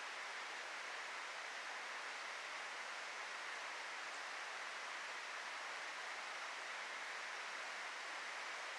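Steady outdoor background noise: an even rushing hiss that holds unchanged, with no distinct calls or knocks.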